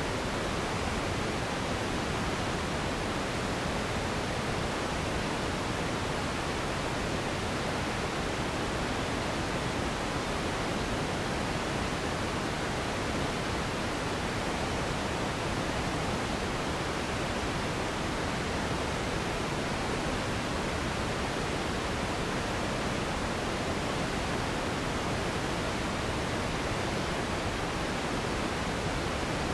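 Steady relaxation noise for sleep: an even, unbroken hiss that never changes, fuller in the low and middle range than at the top.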